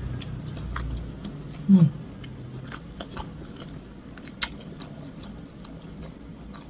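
A person chewing food with the mouth closed: scattered small wet clicks and smacks. Just under two seconds in comes a brief hummed 'mm' that falls in pitch.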